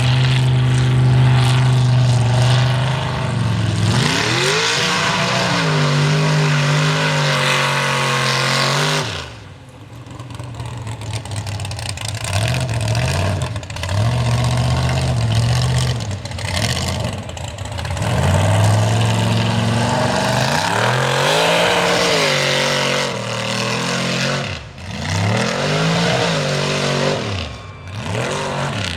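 A mega truck's engine being revved hard, over and over, its pitch climbing and falling. The throttle drops off sharply about nine seconds in, then the revving starts again.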